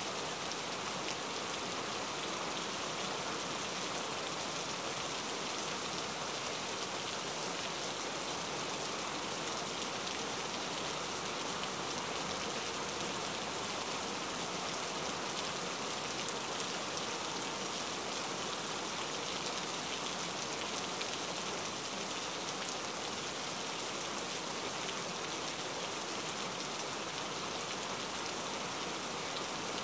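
Heavy rain falling in a steady, even hiss of countless drops.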